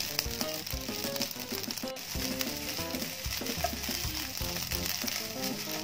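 Fried rice sizzling in a Teflon nonstick pan while a wooden spatula stirs and scrapes it, with scattered soft clicks from the spatula. Quiet background music plays underneath.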